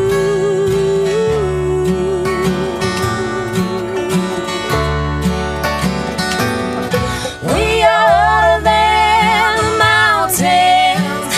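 Live acoustic bluegrass-style band playing a break in the song: strummed acoustic guitar under long, wavering held melody notes. One of these notes glides up and holds about two-thirds of the way through.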